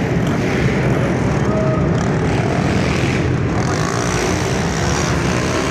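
Several pit bike engines running loudly together as a continuous mechanical drone.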